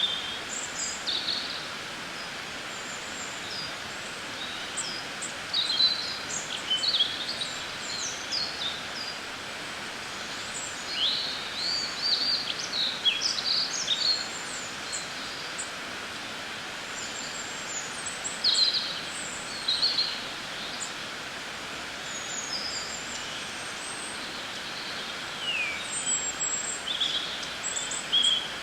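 Songbirds chirping and twittering: many short, quick chirps and whistles in bursts, over a steady background hiss of outdoor ambience.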